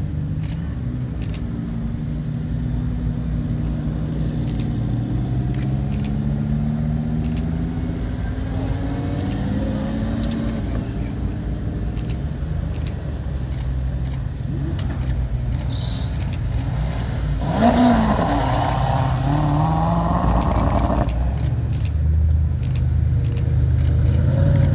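Several supercar engines idle and run at low speed as the cars roll past one after another, with slow rising notes as they pull away. About three-quarters of the way through, one engine is revved hard for a few seconds and then cuts off sharply.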